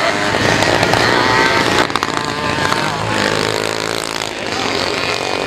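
Moped engines buzzing and revving, their pitch rising and falling, with a brief dip about two seconds in.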